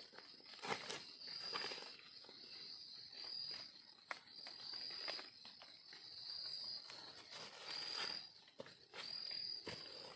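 Insects calling in a high, even pulse about once a second, with scattered rustling footsteps through the undergrowth.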